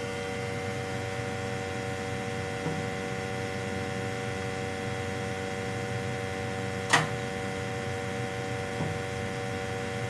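Lochinvar gas-fired boiler running with a steady hum of several fixed tones, its draft now held by a newly fitted barometric damper. A single sharp click about seven seconds in.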